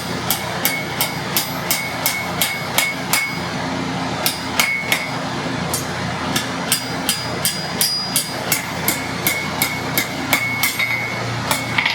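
Blacksmith's hammer striking hot iron on an anvil in quick, even blows, about three a second, each with a short metallic ring. There is a brief pause a little after three seconds in. The smith is curling the end of a forged hook into a decorative scroll. A steady low hum runs underneath.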